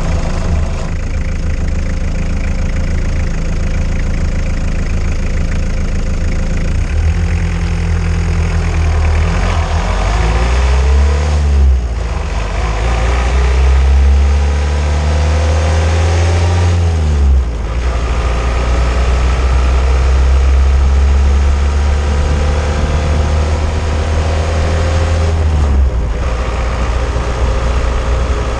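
Old car driving, heard from a camera mounted under the car on the anti-roll bar: a loud, steady rumble of engine, drivetrain and road noise. The engine note rises several times, with brief breaks about 12, 17 and 26 seconds in.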